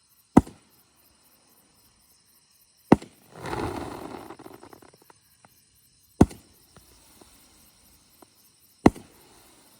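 Repeating aerial fireworks cake firing four sharp bangs, spaced evenly a little over two and a half seconds apart. After the second bang comes a crackling spread lasting about a second and a half, and a few faint cracks follow the third.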